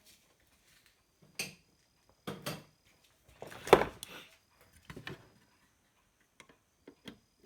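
Scattered clicks and knocks from a touch-screen car stereo unit being handled and taken apart, with the loudest knock a little under four seconds in.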